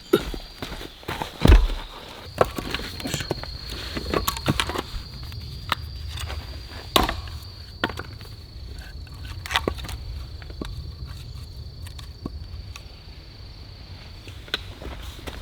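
Irregular knocks and clicks, with one heavier thump about a second and a half in, over a steady high-pitched insect drone.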